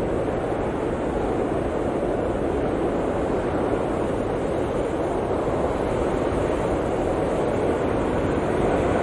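Blizzard wind blowing steadily, a dense rushing noise that swells and eases slightly.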